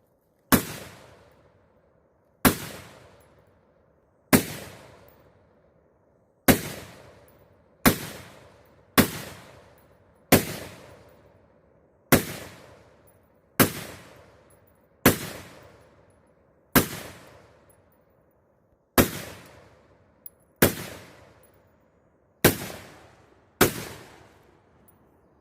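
AR-style pistol fired semi-automatically in slow, steady succession: about fifteen single shots spaced one to two seconds apart, each trailing off in a long echo.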